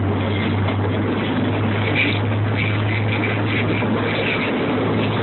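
Moving passenger train heard from an open car: a steady low hum with an even rumble of the running gear on the track.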